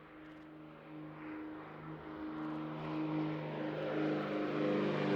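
Propeller engines of a formation of Extra 330LX aerobatic monoplanes droning at take-off power, growing steadily louder as they draw nearer.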